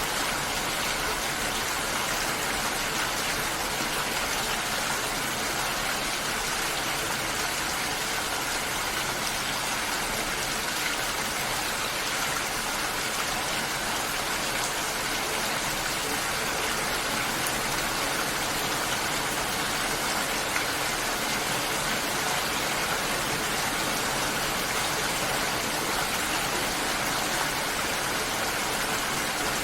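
Steady, unbroken rushing of water, an even hiss that sits mostly in the higher range with little low rumble.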